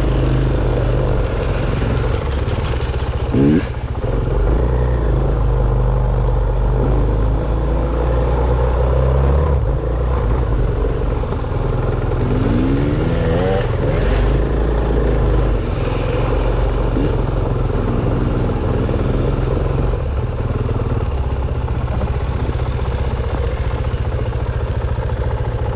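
Dirt bike engine running hard on a trail ride, its pitch rising and falling with the throttle, with sharp revs about three seconds in and again around twelve to fourteen seconds.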